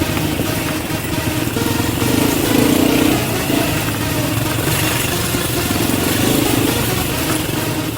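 Quad bike engine running on a trail ride, its sound swelling and easing with the throttle.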